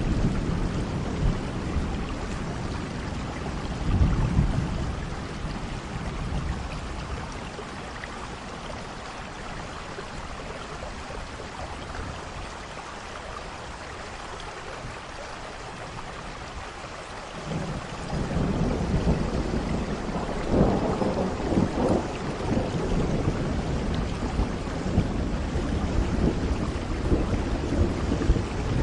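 Steady rain with rolling thunder. A rumble comes about four seconds in, then a quieter stretch of rain alone; thunder builds again suddenly about two-thirds of the way through and is loudest a few seconds later.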